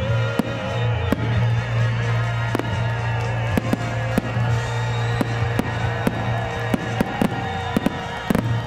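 Aerial fireworks shells bursting overhead in a rapid, irregular series of sharp bangs, over music with a wavering sung melody.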